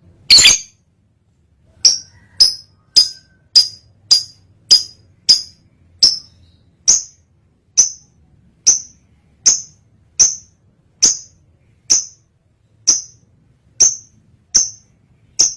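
Lovebird in breeding condition calling: one longer harsh call just after the start, then a long run of short, sharp, high chirps, about two a second at first and slowing to roughly one a second toward the end.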